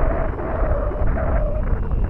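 Heavy wind rumble on the microphone, with the whine of an RC biplane's electric motor and propeller wavering in pitch. The whine fades out about a second and a half in.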